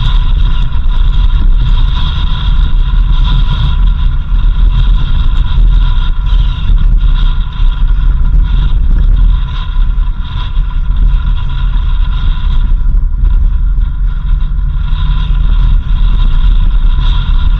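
A vehicle driving on a rural road: a loud, steady low rumble from the engine and tyres, with a continuous high whine over it.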